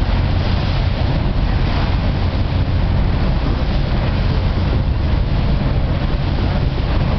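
A boat's engine running steadily with a constant low hum, and wind noise on the microphone.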